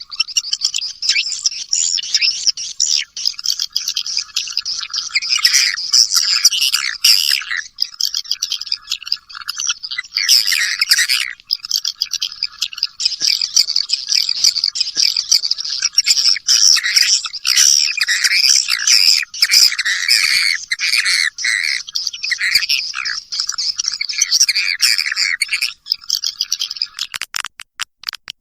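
Recorded swiftlet lure call: a dense, continuous chatter of many edible-nest swiftlets twittering and chirping at a high pitch. About 27 seconds in the chatter breaks into a brief run of sharp clicks.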